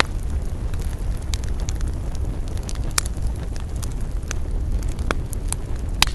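Wood campfire crackling, with irregular sharp pops, a few louder ones about 3, 5 and 6 seconds in, over a steady low rumble.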